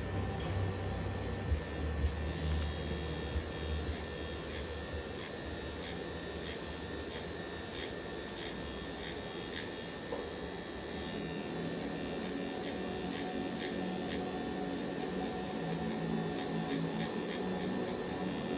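Tattoo machine running steadily with a small-motor buzz.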